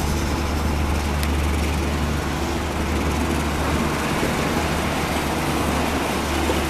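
Mild-steel passenger coaches of a train rolling past at speed, with a steady rumble of wheels on rails. A low engine hum fades away over the first few seconds.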